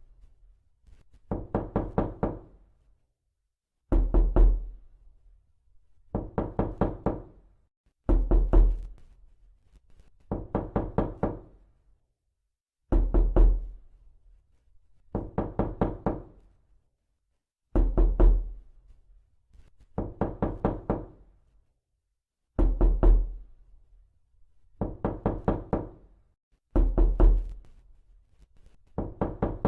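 Knocking on a door in quick groups of about five raps, a group every two seconds or so, alternating a louder, deeper set with a softer one, repeated over and over.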